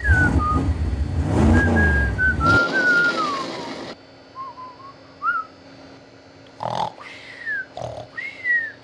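A person whistling a wandering tune, with a loud low rumble under the first two and a half seconds that cuts off suddenly. Near the end come a few short falling whistles.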